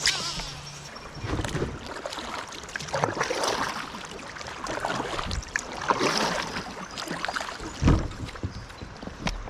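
Kayak paddle strokes in the water: splashing swishes that come and go about every two to three seconds.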